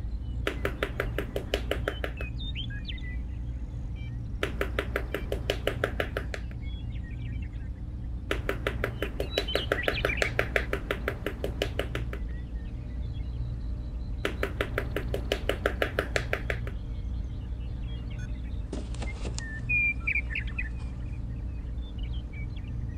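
Birds chirping over a steady low hum, broken by four loud bursts of rapid, even clicking, about ten clicks a second, each one to four seconds long.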